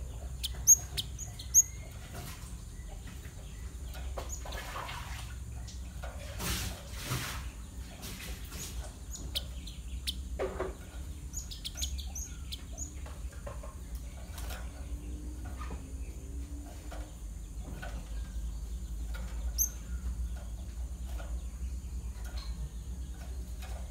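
Java sparrow giving short, sharp, high chirps that fall in pitch. There are two loud chirps about a second in, a quick run of them about halfway through, and another near the end, over a low steady hum.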